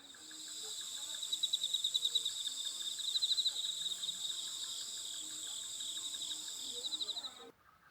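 Summer insects singing in a steady, high-pitched chorus with a fast pulsing beat. It cuts off suddenly near the end.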